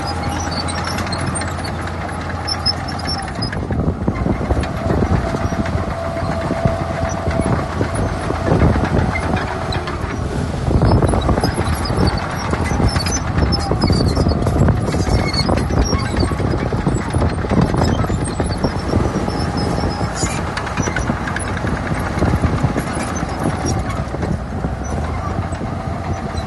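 Heavy diesel earthmoving machinery working: a steady engine drone with a faint whining tone over it, and frequent clanking and rattling that is busiest through the middle.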